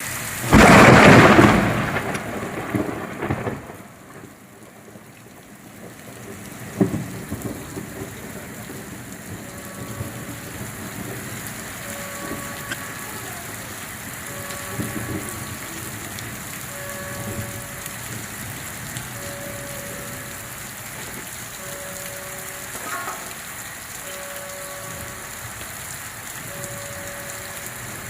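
Steady rain falling, opened by a loud clap of thunder that rumbles away over the first few seconds. From about ten seconds in, a faint short tone repeats about every two seconds over the rain.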